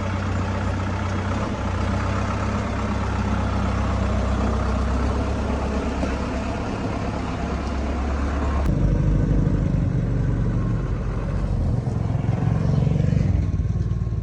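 Bus engine running with a steady low rumble. About two-thirds of the way in it changes abruptly to a heavier, rougher rumble.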